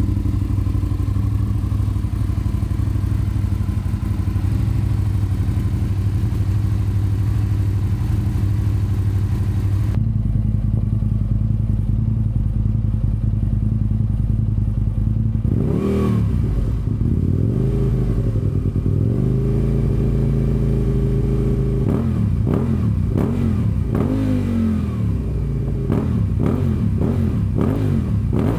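Aprilia RSV1000R Tuono's 60° V-twin through Leo Vince aftermarket exhausts, idling steadily. Just past halfway it is blipped once, then held at a higher speed for a few seconds. Near the end comes a quick run of throttle blips.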